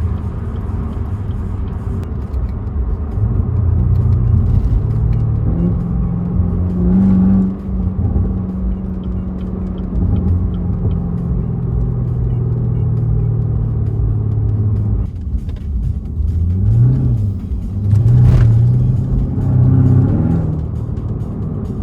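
Car engine and exhaust under hard acceleration, the pitch climbing and then dropping sharply at a gear change about seven seconds in. It holds steady, lifts off abruptly about fifteen seconds in, then rises and falls in several shorter bursts of throttle.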